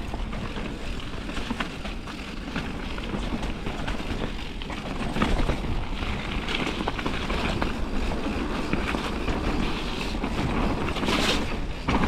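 Radon Swoop 9.0 mountain bike ridden downhill on a wet trail: a steady rush of wind on the microphone and tyres on wet ground, with frequent short rattles and knocks from the bike over bumps.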